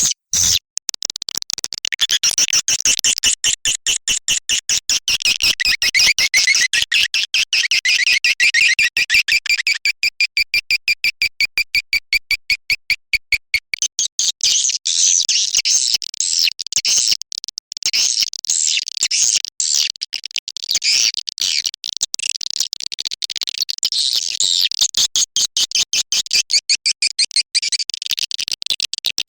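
Edible-nest swiftlet call recording, the lure sound played to draw swiftlets into a nesting house: a fast, even run of short chirps, turning about halfway into denser, higher twittering.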